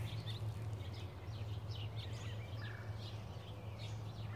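Songbirds chirping: a scatter of short, quick down-slurred notes, over a steady low hum.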